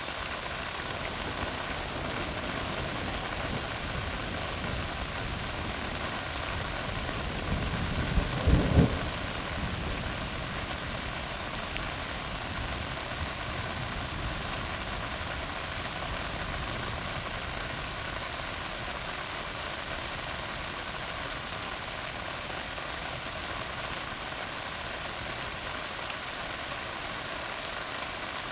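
Steady rain falling on a tar road, with a short, loud rumble of thunder about eight seconds in.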